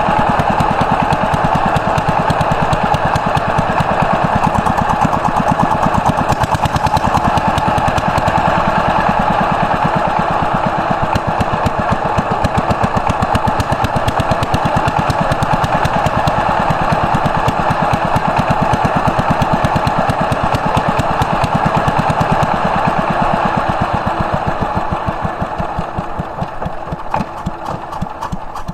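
An 18-horsepower power tiller's single-cylinder diesel engine running loudly with a fast, even pulsing beat, slowing and getting quieter over the last few seconds.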